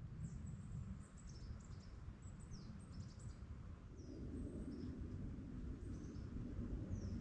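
Small forest birds chirping: many short, high-pitched notes and quick falling calls, repeated irregularly over a low rumbling background that grows fuller about four seconds in.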